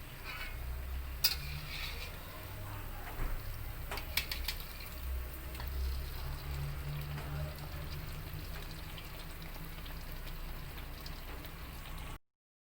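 Kuih pinjaram batter frying in hot oil, a steady sizzle with a few sharp clinks about one second and four seconds in; the sound cuts off suddenly near the end.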